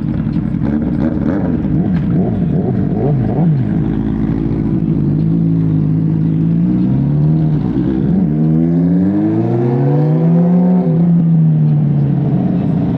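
Motorcycle engine running under way: its pitch holds steady, dips twice briefly, then climbs as it revs up and falls away again, like a bike accelerating and changing gear.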